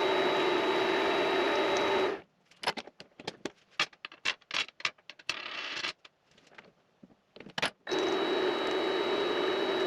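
Vevor MX400 mini lathe running steadily with a thin high whine, cutting off abruptly about two seconds in. A run of sharp clicks and light knocks follows, with a short scraping stretch, until the lathe's running sound comes back abruptly near the end.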